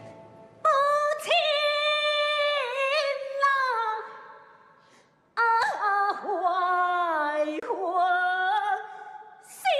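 A woman's voice singing a gezaixi (Taiwanese opera) aria in two long phrases, the pitch sliding and bending between notes, with little or no accompaniment. The first phrase fades out about halfway through and the second comes in about a second later.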